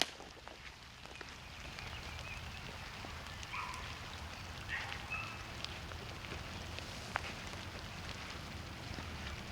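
Campfire crackling in a new fire pit, with scattered sharp pops, and a few short, faint animal calls a few seconds in.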